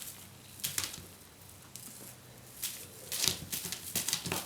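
Kittens playing on a cat play station: short scratchy, rustling bursts of claws and paws, one early and then a quick run of them in the second half, over a faint low hum.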